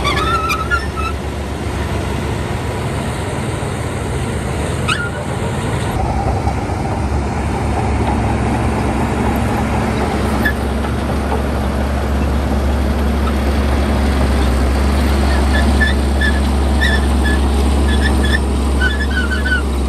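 Heavy diesel engine of earthmoving machinery running steadily with a low drone, growing a little louder after about six seconds.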